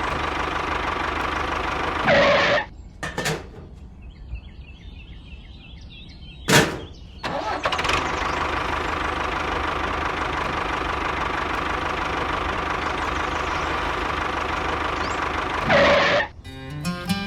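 A small motor running steadily, with a loud burst about two seconds in, then a quieter stretch ending in a sharp click, the motor running again, and another loud burst near the end.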